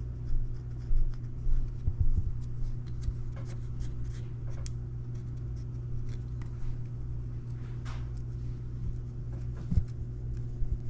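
Light scraping, rubbing and small clicks of hands working on aluminium dirt bike engine cases, with a few louder knocks about a second in, around two seconds in and near the end. A steady low electrical hum runs underneath.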